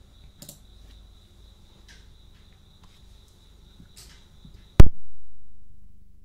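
Crickets chirping in a steady high trill, with a few faint clicks. Nearly five seconds in, a sudden loud low thud rings down over about a second and a half, and the cricket sound cuts off.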